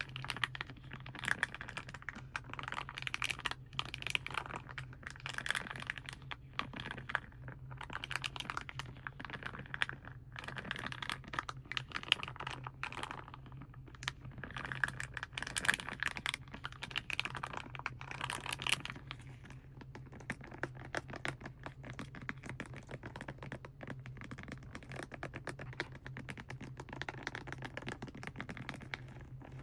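Rapid, irregular light tapping and crinkling on the plastic and foil packaging of paints: a dense stream of small clicks, busier for the first two-thirds and lighter near the end, over a faint steady low hum.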